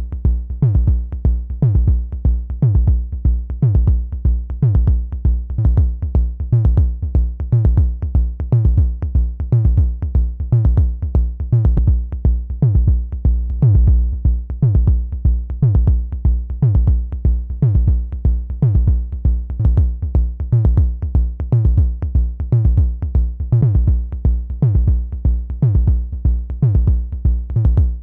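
Analog drum synthesizer playing a looping sequenced pattern: a fast, even run of percussive hits, each dropping quickly in pitch like a synth kick, over a sustained low pitched drone.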